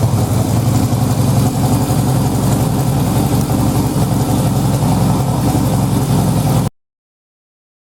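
Yamaha XS1B's 650 cc air-cooled parallel-twin engine idling steadily, freshly overhauled and just started. The sound cuts off suddenly near the end.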